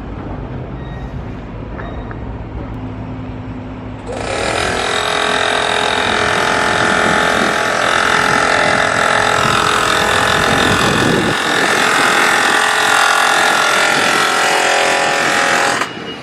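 Construction machinery: a low engine rumble, then about four seconds in a loud, harsh, high machine noise starts suddenly, runs steadily for about twelve seconds and cuts off abruptly near the end.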